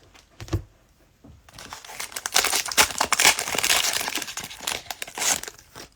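Cellophane wrapper of a trading-card cello pack crinkling and tearing as it is opened, a dense crackle from about a second and a half in until near the end. A soft thump comes about half a second in.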